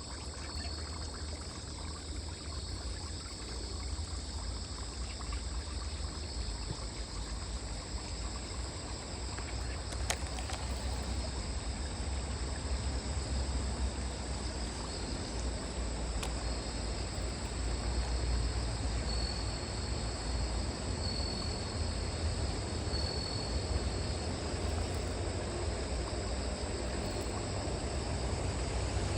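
Waterside ambience: insects chirring steadily, water trickling, and a low rumble of wind on the microphone, with a couple of faint clicks.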